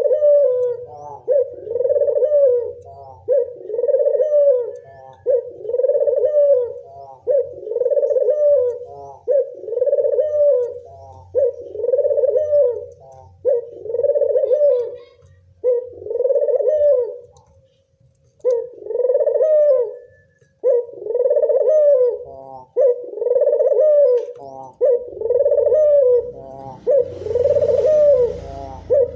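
Local puter (Barbary dove) cooing over and over, one phrase about every one and a half to two seconds, with a short break about two-thirds of the way through. Near the end a rustling hiss and low rumble join the cooing.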